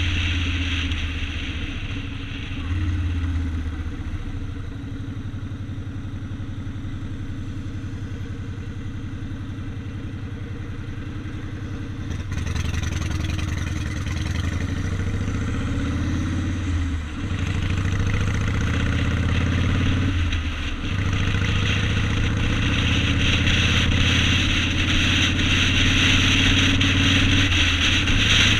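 Yamaha Road Star 1600's V-twin engine running while under way, getting louder about twelve seconds in. Three brief dips in the second half sound like gear changes.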